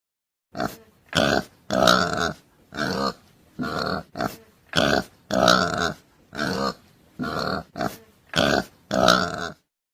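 An animal calling over and over: about a dozen short, loud calls in a steady series, starting about half a second in and stopping shortly before the end.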